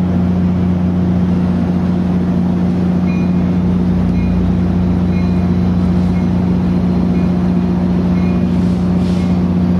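Diesel locomotive engine running at a steady idle, a loud constant deep hum. From about three seconds in, faint short high tones repeat every second or so.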